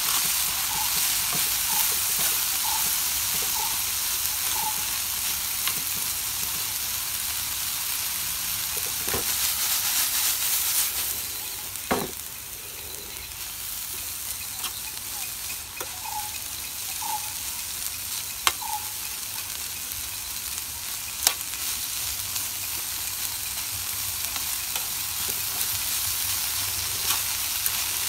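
Chicken strips, bell peppers and onion sizzling in an oiled pan while being stirred with a metal spoon. The sizzle is louder for the first ten seconds or so, then settles lower. A few sharp clicks come from the spoon striking the pan.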